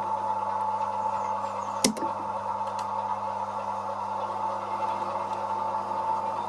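OO gauge model locomotive running slowly while shunting, a steady electric hum and whine, with one sharp click about two seconds in.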